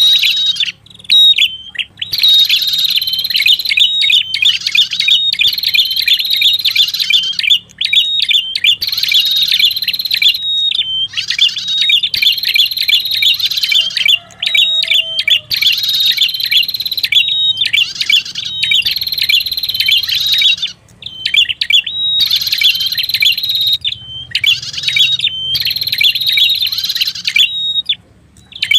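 Prenjak kepala merah song played as a bird-trapping lure call: loud, high, rapid chattering phrases about every two seconds, separated by short pauses, over a faint low hum.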